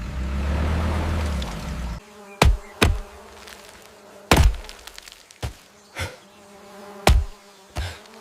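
A deep rumble for about two seconds, then seven sharp knocks at uneven intervals over a steady buzz.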